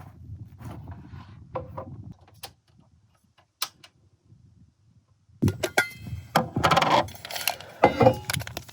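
A low rumble with a few clicks for about two seconds, then a short quiet spell. From about five and a half seconds in, small hard items clink and rattle as camp gear is handled.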